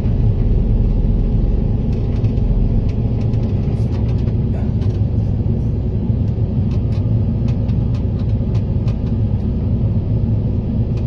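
Excavator's diesel engine running steadily under load, a deep even drone, with scattered sharp clicks over it.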